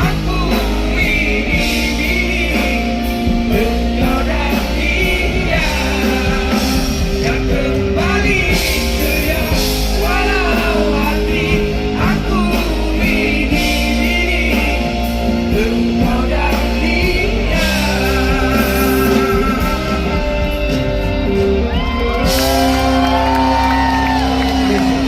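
Live band playing a song with a man singing over it, amplified through a PA in a large hall, with shouted or belted vocal moments.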